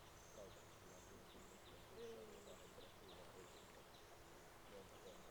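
Faint ambience of a bird flock, with many short, high chirps repeating.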